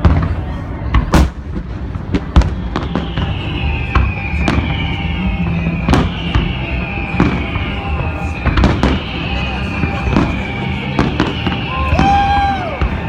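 Aerial fireworks display: shells bursting in sharp bangs at irregular intervals, with a run of repeated falling high whistles from about three seconds in.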